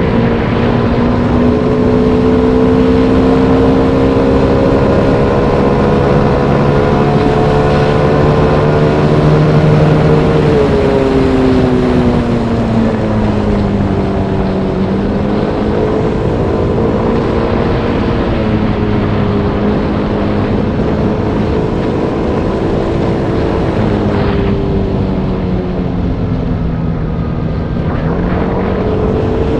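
Motorbike engine running under way, its pitch falling twice as the bike slows and rising again near the end, over steady wind and road rush.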